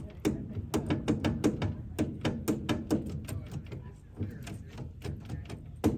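Quick, irregular metallic clicks and clunks of a 1951 Studebaker's column-shift linkage arms being worked back and forth, several a second. The grease-caked, long-seized linkage is starting to move. There is a short lull in the middle and one louder knock near the end.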